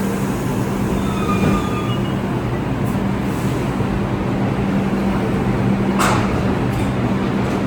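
NYC Subway R62A train running on the track: a steady rumble with a constant hum, a faint brief wheel squeal about a second in, and one sharp clack about six seconds in.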